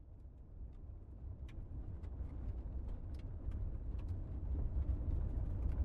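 Car interior ambience in a blizzard: a low, steady rumble of the engine and storm wind that fades in and grows louder, with scattered faint clicks.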